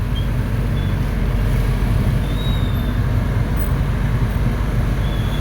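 Excavator's diesel engine running steadily, with a few faint, short high squeaks now and then.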